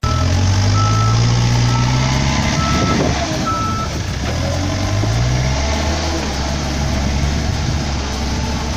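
Heavy construction machine's diesel engine running under load, its pitch rising and falling, with a back-up alarm beeping several times in the first few seconds.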